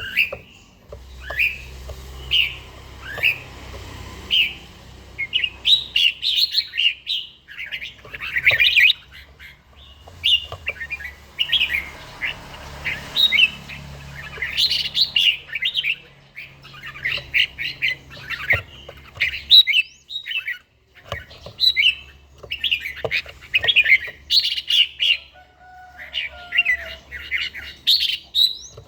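Red-whiskered bulbul singing: quick, bright warbled phrases repeated again and again with short pauses, over a faint low hum.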